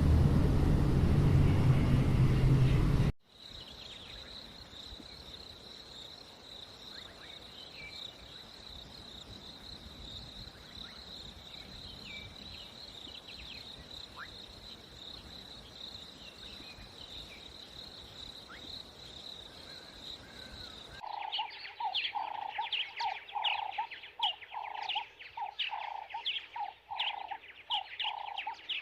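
A loud rushing noise that cuts off sharply about three seconds in. Then a steady high-pitched whine with faint chirps, and from about two-thirds of the way through a bird calling over and over, about two calls a second.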